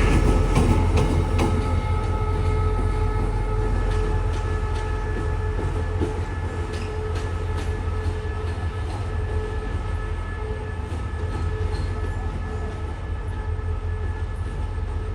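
Diesel train running on the tracks: a steady low engine rumble with a faint steady whine and scattered wheel clicks over the rail joints. The sound slowly fades and the clicks thin out in the second half.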